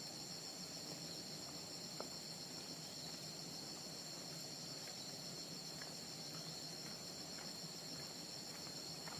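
A steady chorus of insects trilling continuously at a high pitch, with one faint click about two seconds in.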